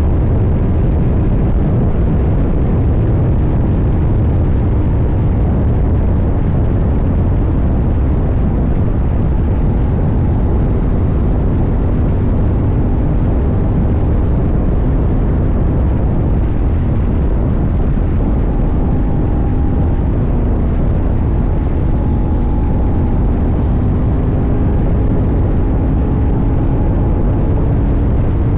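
CFMoto 800NK's 799 cc parallel-twin engine running while the bike is ridden at a fairly steady pace, with only slow, small changes in engine speed, heard from a camera on the tank over a heavy low rumble of wind and road noise.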